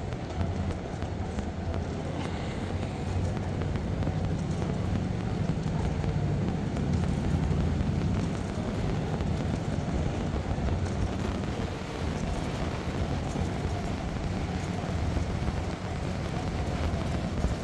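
Steady city street noise in the rain: traffic running on wet pavement, a constant low rumble with rain hiss over it.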